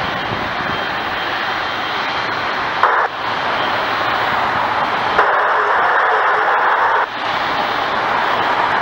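Jet airliner engine noise, a steady rush that swells briefly about three seconds in and again from about five to seven seconds in.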